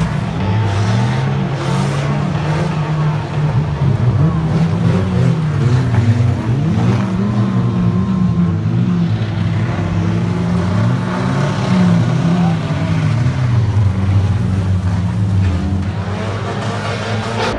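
Several banger racing cars' engines revving and running as the cars race round the track. Their pitches rise and fall over one another.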